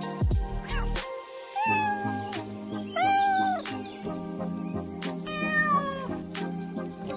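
Cat meowing three times, each meow drawn out for under a second, over background music.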